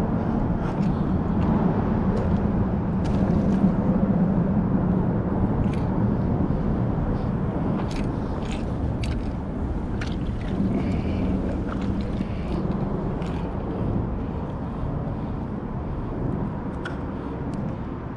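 Steady low rumble of road traffic passing on the bridge, swelling in the first few seconds and again about ten seconds in, with scattered light clicks.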